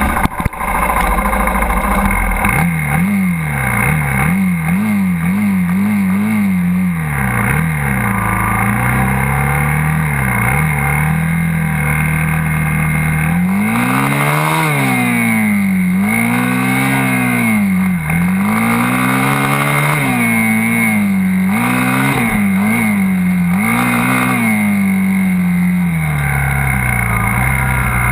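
Dirt bike engine revving up and down: quick throttle blips about twice a second for several seconds, then slower rises and falls in pitch, settling to a steadier run near the end.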